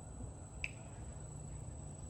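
A steady, high-pitched insect call holding one tone, over a low rumble, with one small click a little over half a second in.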